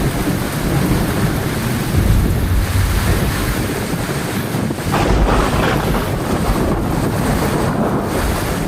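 Heavy rain falling steadily, with low rumbles of thunder swelling about two seconds in and again about five seconds in.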